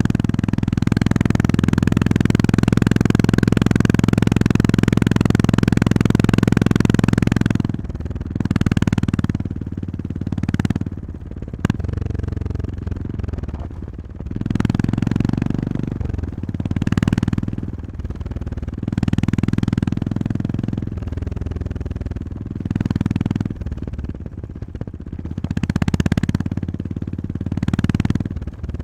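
Honda GB350S's air-cooled single-cylinder engine running under load, held steady for about seven seconds, then rising and falling in repeated swells a few seconds apart as the throttle is opened and closed. A single sharp click comes about twelve seconds in.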